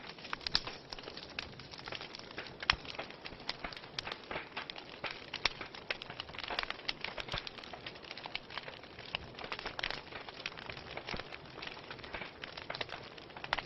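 Fireplace fire burning, crackling steadily with many small pops and one louder pop a little under three seconds in.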